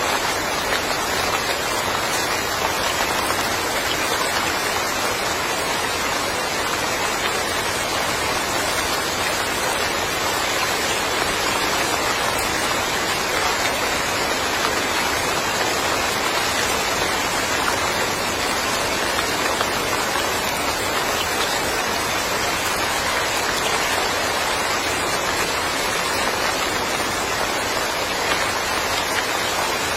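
Steady rain falling on a yard, an even rushing patter with no break or change.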